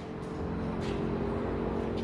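A motor running steadily at a constant pitch.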